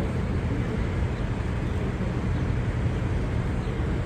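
Steady low engine rumble with a faint hum, under an even wash of outdoor noise.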